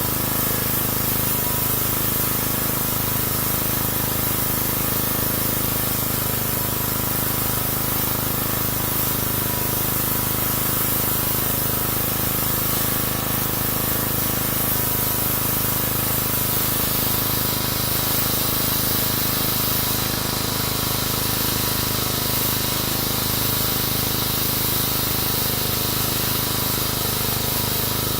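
Pressure washer running: a steady hiss of the water jet over the even drone of its pump.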